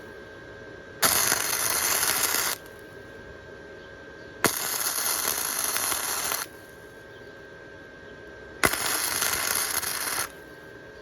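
Wire-feed welder arc crackling and hissing in three short bursts of about one and a half to two seconds, each starting with a sharp snap. The welds are laid in short stitches on a thin steel motorcycle frame, going around the crack instead of holding the trigger, to keep from burning through.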